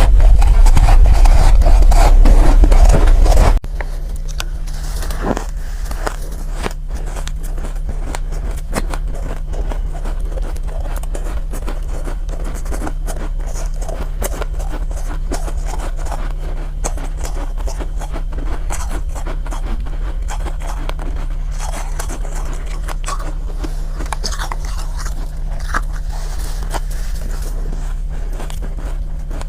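Soft, powdery ice being bitten and chewed, with a dense crunching and scraping. About three and a half seconds in it cuts abruptly to quieter, finer crunching over a steady low hum.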